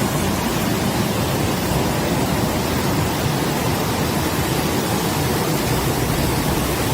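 Floodwater rushing through a street as a steady, loud roar.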